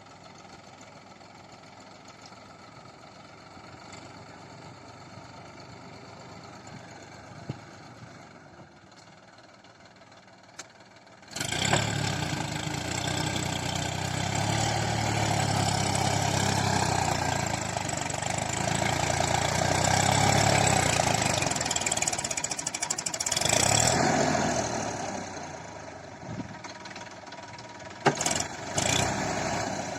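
New Holland 3230 tractor's diesel engine running. It is fairly faint at first, turns suddenly much louder a little over a third of the way in and stays loud, then falls back near the end, where a few sharp clicks sound.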